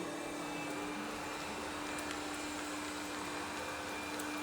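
RoboVac robot vacuum running with a steady hum and an even whir, with a few faint ticks.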